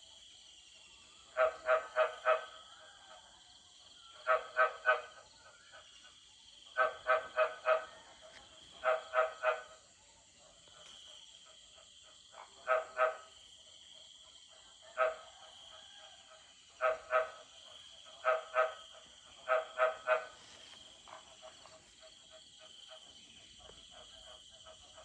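Frogs calling after rain: short runs of two to five quick, pitched croaks, repeated every couple of seconds, over a steady high chorus of insects.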